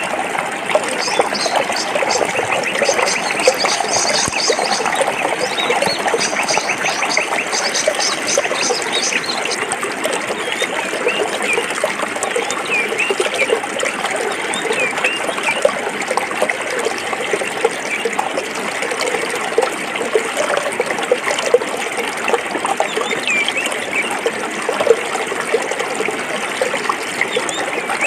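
Stream water flowing and trickling over rocks, a steady bubbling babble. During the first third a rapid, high-pitched ticking runs over it.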